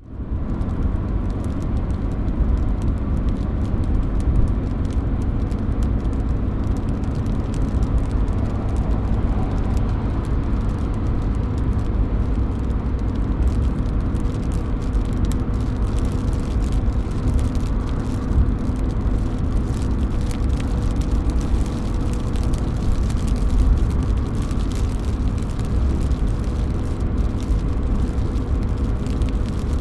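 Steady rain running off a roof, with a constant low rumble under many small drop hits splashing.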